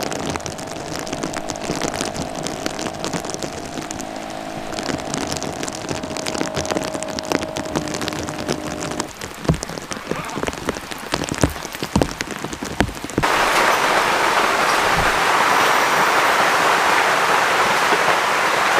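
Rain falling, with single drops tapping over a light patter and a faint steady hum under it. About two-thirds of the way through, the sound switches suddenly to a louder, even rush of heavier rain.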